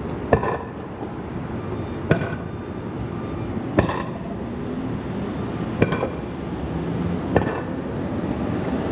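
Riding scooter giving sharp metallic clinks about every two seconds, each with a brief ring, over steady wind and road noise.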